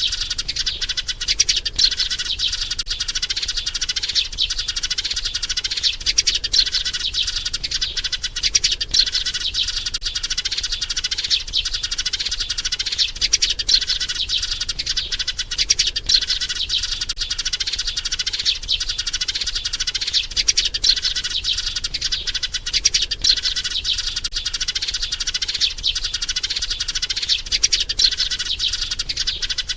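Sparrow chirping rapidly and without pause, a dense run of short calls: the urgent calling of a maturing sparrow, used as a lure call for trapping sparrows.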